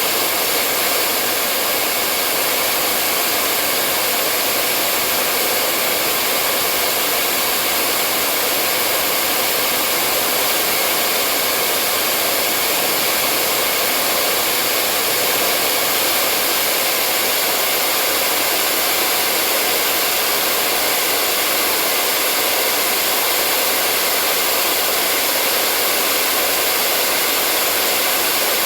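Hair dryer running steadily: a constant blowing whoosh of fan and airflow, loud and unchanging.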